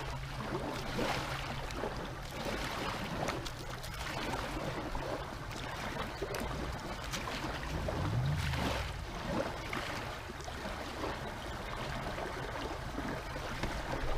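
Lake water lapping and sloshing around a kayak, steady throughout, with a faint low hum that rises and falls about eight seconds in.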